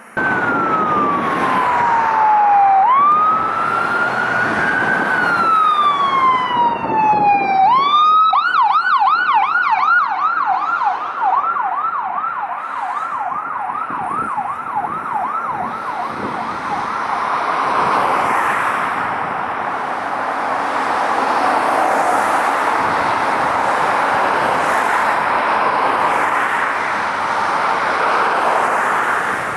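An emergency vehicle's electronic siren sounding a slow wail, then about eight seconds in switching to a fast yelp. About halfway through the siren fades out into a steady rush of road and traffic noise.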